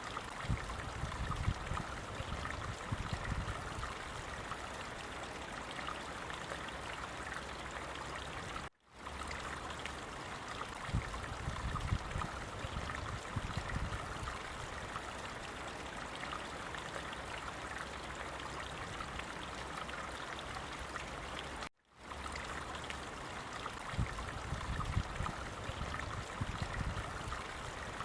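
Flowing stream water: a steady rush with clusters of low gurgles. The sound cuts out briefly twice, about 9 and 22 seconds in, and the same stretch of water sound starts over after each break, as a looped recording does.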